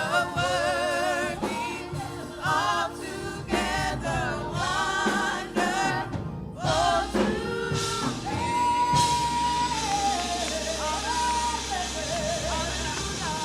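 Gospel worship singing with musical accompaniment, the voices wavering with vibrato; partway through, a singer holds one long note before sliding down.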